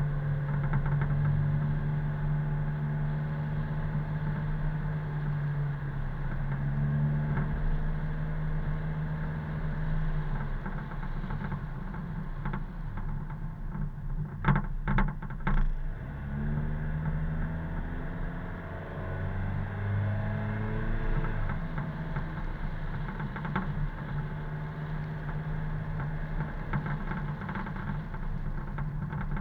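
Car engine and road noise while driving a mountain road, the engine note stepping up and down in pitch. Three or four sharp knocks come about halfway through.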